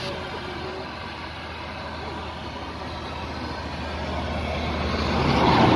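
A vehicle engine running with a steady low hum, growing louder near the end.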